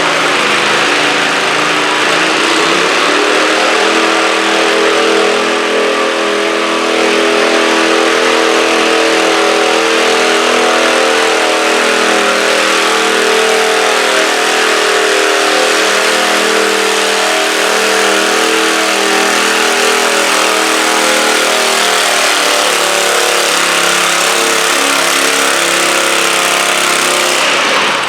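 Stock garden tractor engine revving up under load during a tractor pull, held at steady high revs for most of the run, then dropping off near the end.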